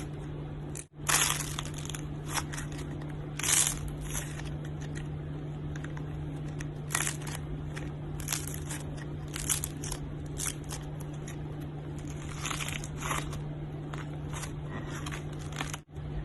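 Irregular crunching and crackling, as of something crunchy being squeezed and crushed, over a steady low hum. The sound drops out briefly about a second in and again near the end.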